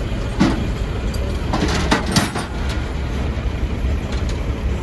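Road traffic passing on a highway: a steady low rumble, with a few short knocks or rattles about half a second in and around two seconds in.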